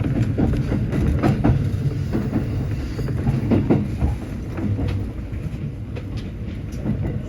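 JR West Special Rapid (Shin-kaisoku) electric train running along the line, with a steady low rumble and irregular clicks of its wheels over the rail joints.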